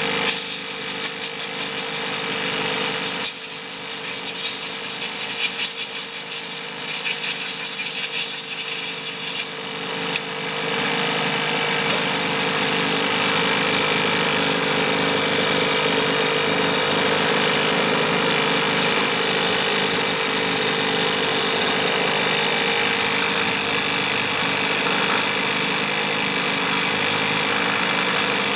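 Small two-stroke engine of a Weed Eater leaf blower running steadily. For the first ten seconds or so, scratchy rubbing and clicking from hands working at the machine sits over it. About ten seconds in, the engine runs steadier and a little louder.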